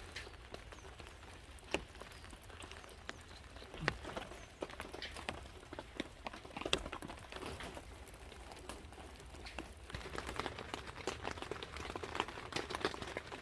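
Scattered, irregular light taps and knocks, a few sharper ones standing out, over a faint steady background.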